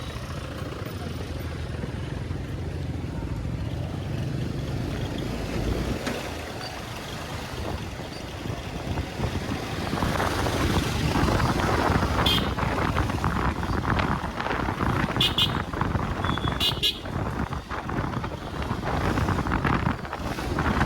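Motorcycle riding along a road: a steady low engine rumble, then louder road and wind noise in the second half. A horn toots briefly about three times near the middle and later.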